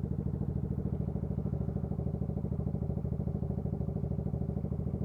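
Honda CB125T's air-cooled parallel-twin idling steadily, an even pulsing exhaust note.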